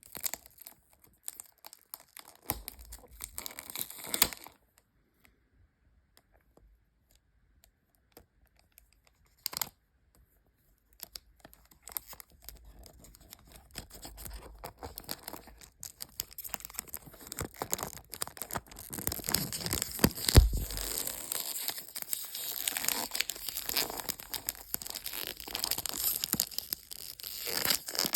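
Perfume box packaging being handled, torn open and crinkled: scattered clicks and short rustles at first, then a longer stretch of continuous tearing and crinkling that grows louder, with one heavy thump about two-thirds of the way through.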